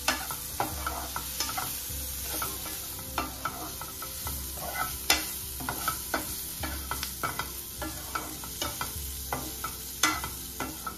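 Prawns, onions and bell peppers sizzling in a hot non-stick frying pan while a spatula stirs and tosses them, with irregular scraping clicks of the spatula against the pan over a steady sizzle.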